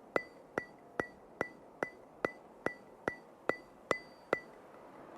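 Steady ticking: evenly spaced sharp clicks with a short ringing tone, about two and a half a second, stopping near the end, as the percussive intro of a music track.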